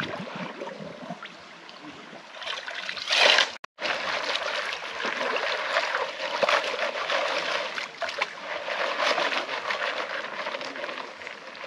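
Gold pan being dipped and swirled under shallow stream water: water sloshing and gravel swishing and clicking in the pan, with a louder splash about three seconds in.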